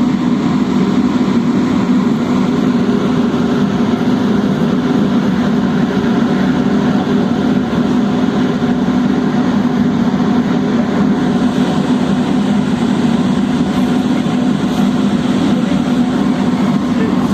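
Ferry engine running steadily, a continuous low drone with no change in pitch or level.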